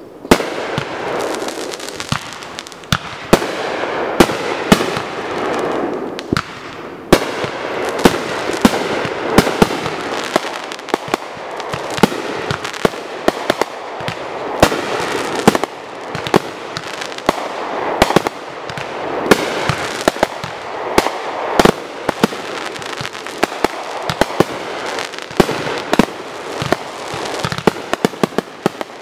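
Consumer firework cakes firing in quick succession: dense, irregular sharp bangs from the launches and aerial breaks, several a second, over a continuous rushing noise.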